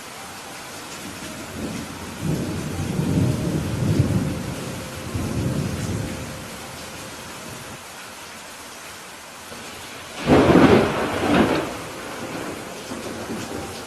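Steady rain with thunder: a low rolling rumble of a few seconds, then, about ten seconds in, a sharp, loud thunderclap that rumbles away.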